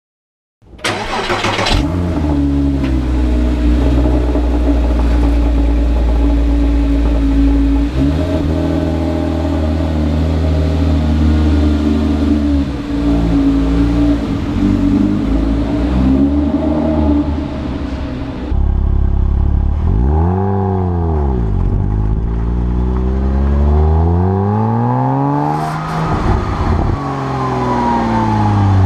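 A Porsche Cayman S's 3.4-litre flat-six fires up through the Porsche Sport Exhaust about a second in, with a brief flare, then settles to a steady idle. In the second half the throttle is blipped twice: a short rev that rises and falls, then a longer, higher one.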